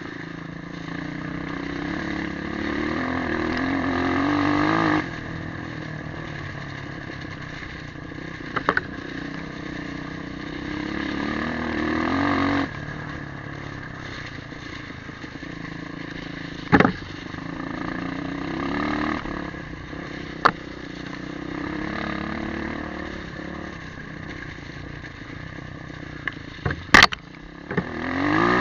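Motorcycle engine under way, its pitch rising as it accelerates and then dropping sharply as the throttle is shut, twice, then running steadily. A few sharp knocks come through over the engine.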